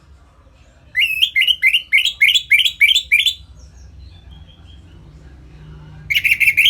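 Orange-headed thrush singing in the loud, clear ngeplong style: a run of about eight quick upslurred whistled notes, then after a pause of a couple of seconds a faster burst of notes near the end.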